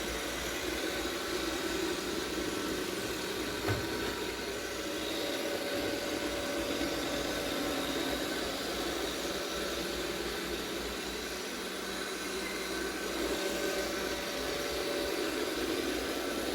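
iRobot Roomba 692 robot vacuum running steadily, a constant whir of its suction motor and brushes with a few faint steady tones over a noisy hum.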